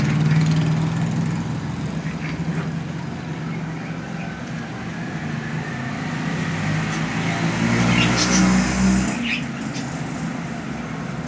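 A motor vehicle engine running, growing louder about eight seconds in and then easing off.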